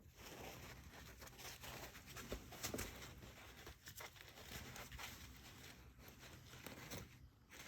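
Faint rustling and a few light clicks of handling, barely above room tone.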